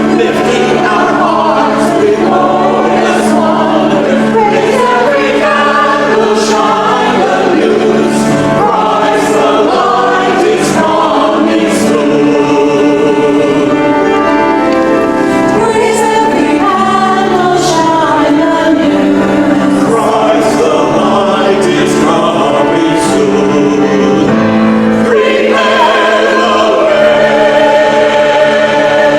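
A church choir singing in harmony, several voice parts moving together over held notes.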